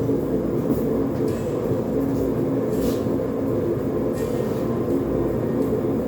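Propane forge burner running with a steady, even rumble, a dense hum held without change, with a few faint light ticks over it.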